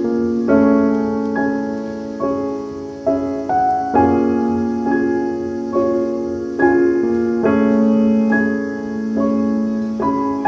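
Background piano music: a slow melody of sustained notes over held bass notes.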